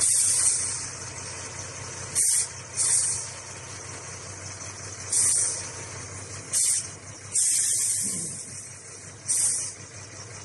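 Diesel engine of a used HOWO 6x4 dump truck idling steadily, with seven short sharp hisses of compressed air let off from the truck's air system, the longest lasting about a second around seven seconds in.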